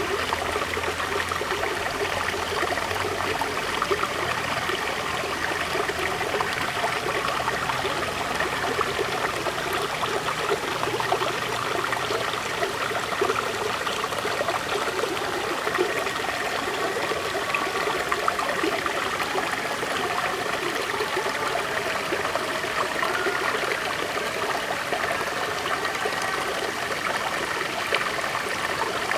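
River water flowing over rocks, a steady rushing and burbling.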